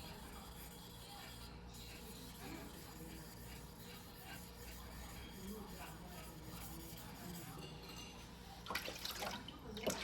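Knife blade worked by hand on a wet whetstone: faint, low noise for most of the time, then a few louder wet scrapes near the end.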